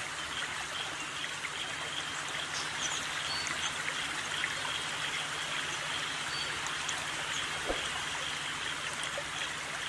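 Steady rushing hiss like a running stream, with a faint continuous high tone and a few faint short chirps, and a single soft knock about three quarters of the way through.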